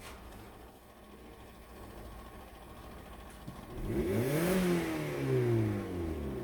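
Opel Astra H 1.6 Z16XER four-cylinder petrol engine running quietly, then revved once about four seconds in: the pitch climbs quickly and falls back over the next two seconds.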